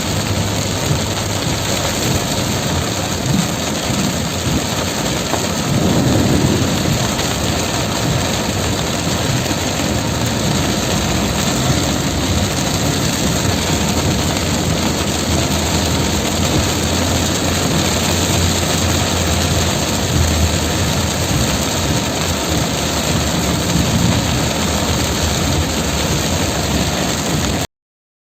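Heavy rain pouring down, with a vehicle engine humming steadily underneath. The sound stops abruptly near the end.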